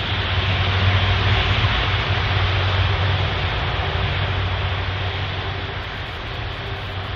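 Airbus A380's four Rolls-Royce Trent 900 jet engines passing close by: a loud rush of jet noise over a steady low hum. It swells about a second in, then slowly fades.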